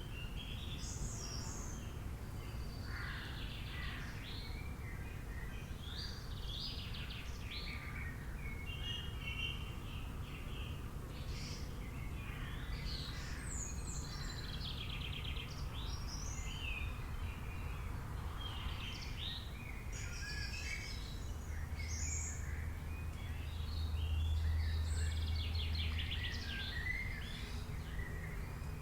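A chorus of wild birds calling, with many short overlapping chirps and trills. Underneath is a low steady rumble that swells for a few seconds about two-thirds of the way through.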